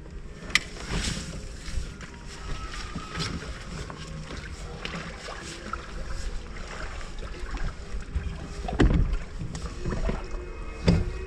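A small boat on the open water, with a low rumble and gusts of wind on the microphone. Now and then there is a light knock against the boat, the loudest near the end.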